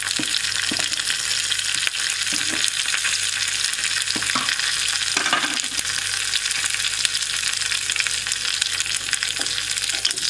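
Garlic, ginger, green chilli and cumin sizzling steadily in hot ghee in a kadhai as a tadka, frying toward brown. Now and then a ladle scrapes and stirs in the pan.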